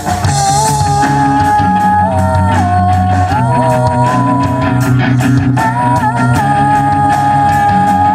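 Live rock band playing: drums and bass under a lead melody of long held notes that glide from one pitch to the next.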